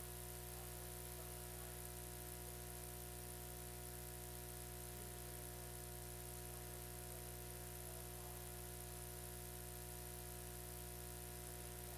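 Steady electrical hum and buzz with background hiss, with no clear program sound: a stack of unchanging tones that does not vary at all, typical of a ground-loop hum in the recording chain.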